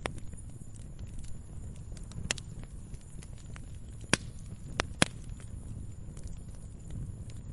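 Wood fire burning in a fireplace: a low steady rumble of flames with scattered sharp crackles and pops, the loudest two about four and five seconds in.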